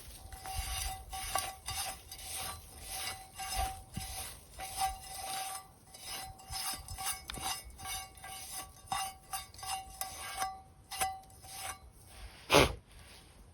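A metal utensil scraping and stirring in a metal pan in many short strokes, with one loud knock against the pan near the end.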